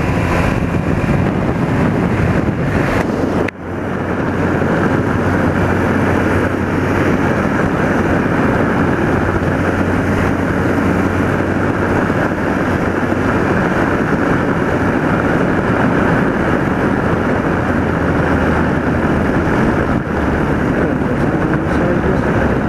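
BMW R80RT's air-cooled flat-twin engine running at road speed under heavy wind rushing over the microphone, heard from aboard the motorcycle. The sound dips sharply for a moment about three and a half seconds in.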